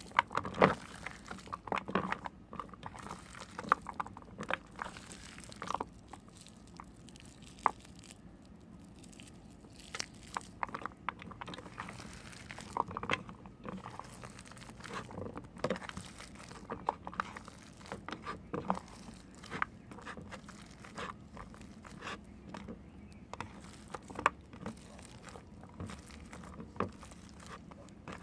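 Knife cutting and carving into bars of soap: irregular crisp crunches and crackles, a few a second, as the blade breaks through the dry soap.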